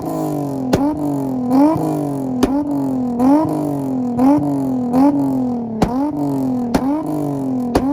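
Nissan Z car's VQ V6 revved over and over against a launch limiter, about once a second. Each cycle starts with a sharp crack as the pitch jumps up, then the pitch sags before the next one.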